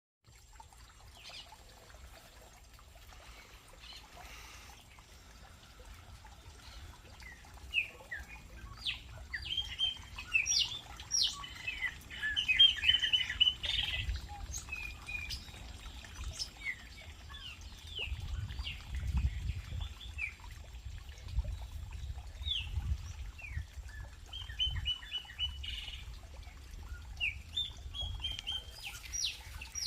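Small birds chirping at a feeder, many short overlapping calls from several birds, sparse at first, then thick about ten to fourteen seconds in and again near the end. A low rumble sits underneath in the middle stretch.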